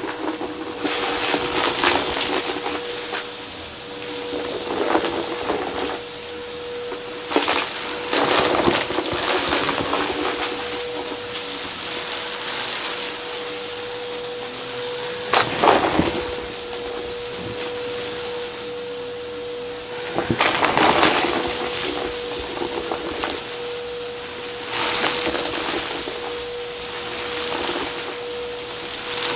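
Vacuum cleaner running with a steady motor whine, with repeated bouts of crackling and rattling as crunchy dry debris is sucked up, about seven bursts spread through the stretch.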